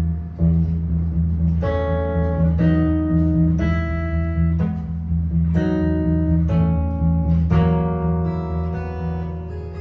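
Improvised jazz guitar: plucked chords and single notes changing about once a second over a held low bass note.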